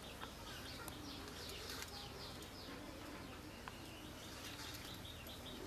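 Small birds chirping in a quick run of short falling notes, with a dove cooing low underneath.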